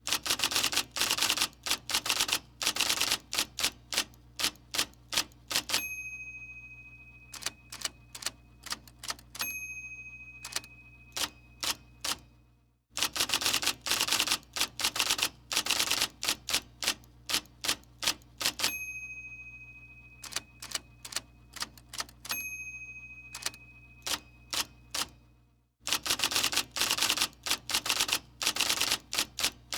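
Typewriter typing: quick runs of key clacks, each run followed by a single ringing bell ding that fades away, over a steady low hum. The same sequence repeats about every 13 seconds, like a looped sound-effect track.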